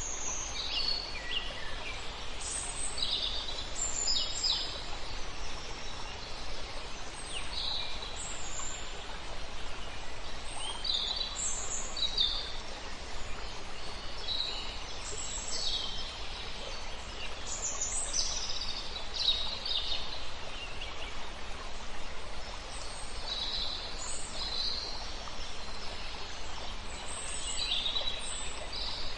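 Several songbirds chirping and calling in short, high phrases every second or so, over a steady rush of flowing river water.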